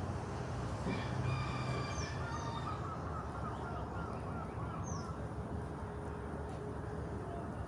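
A rooster crowing once, starting about a second in and lasting about two seconds, with small birds chirping.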